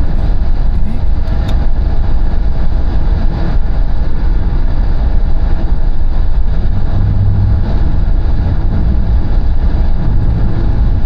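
Steady, loud low rumble of a car being driven at speed, heard from inside: engine, tyre and wind noise with no breaks.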